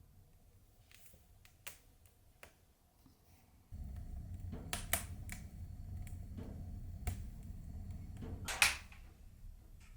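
A wood fire in a stove crackling, with sharp irregular snaps. A low rumble sets in suddenly about four seconds in.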